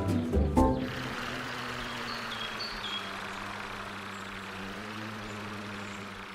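A vehicle engine running steadily with a low hum, fading out at the end, after a short stretch of music in the first second.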